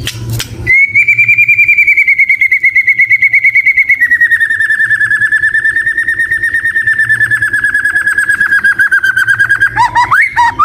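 White-rumped shama singing a long, rapid, evenly pulsed trill held on one pitch. The pitch drops slightly about four seconds in, and the trill breaks into quick varied notes near the end.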